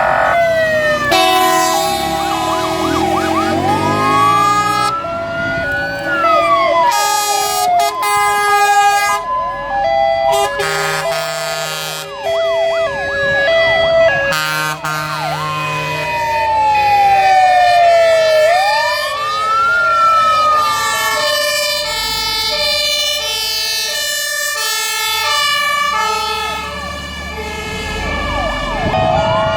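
Several fire engine sirens sounding at once as a convoy of fire trucks passes: many overlapping two-tone hi-lo sirens, with a few slow rising and falling wails among them.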